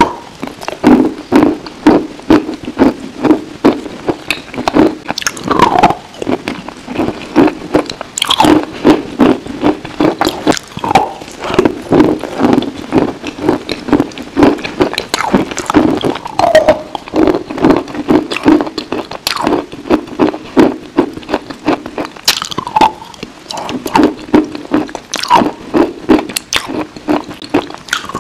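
Close-miked biting and chewing of a hard, dry white chalk-like chunk: dense crunching and crackling, with loud chews about twice a second.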